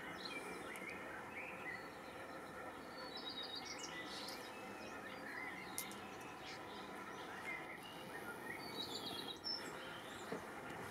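Faint outdoor ambience with small birds chirping over a steady background hiss. A quick run of short high notes comes about three seconds in, and again near nine seconds.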